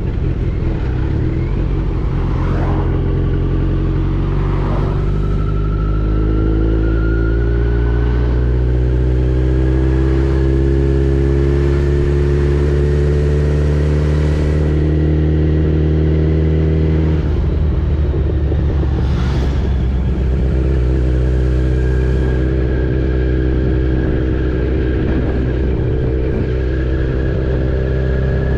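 Kawasaki Z900's inline-four engine running on the move. Its pitch climbs slowly through the first half, falls abruptly just past the middle, then holds steady.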